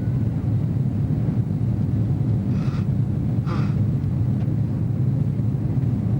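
Steady low rumble of engine and airflow noise heard from inside a jet airliner's cabin, with two short noises about a second apart midway.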